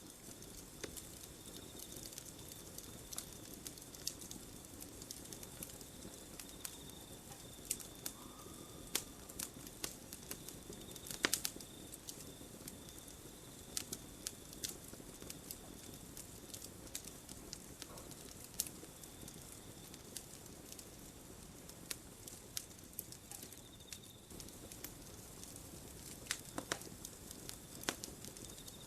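Campfire crackling: irregular sharp pops and snaps over a soft steady rush of burning, with one louder pop about eleven seconds in. A faint, thin high tone comes and goes in the background.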